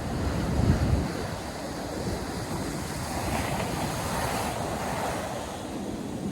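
North Sea surf breaking and washing up the beach, with wind buffeting the microphone. A low gust rumbles in the first second, and a wave washes in, loudest about four seconds in.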